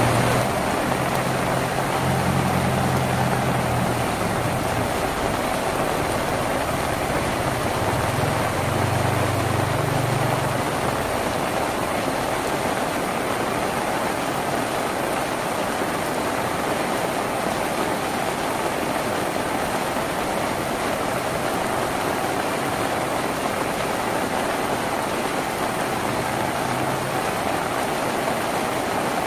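Steady heavy rain drumming on a tin roof. A low hum runs underneath it for about the first ten seconds, then fades.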